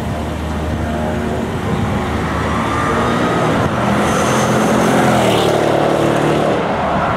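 Mercedes-Benz CLS engine pulling hard as the car approaches, its note climbing. It is loudest as the car passes about five seconds in, with tyre and wind hiss, then the pitch drops as it drives away.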